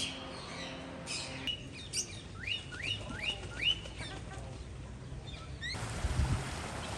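Birds calling: one bird gives four quick rising chirps in a row, with other birds chirping around it. Near the end there is a brief low thump.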